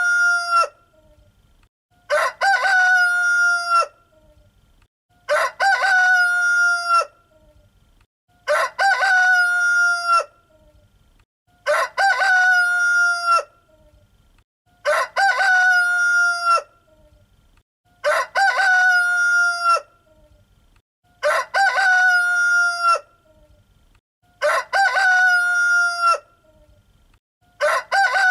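Rooster crowing cock-a-doodle-doo about nine times, one crow of about two seconds roughly every three seconds, with quiet gaps between.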